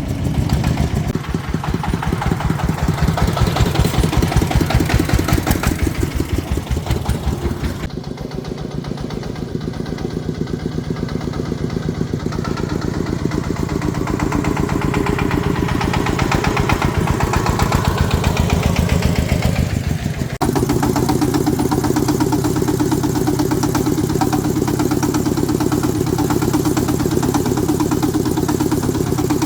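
Tractor engine running with a rapid, even chug, its note shifting as the engine is worked. About twenty seconds in the sound changes abruptly to a steadier run.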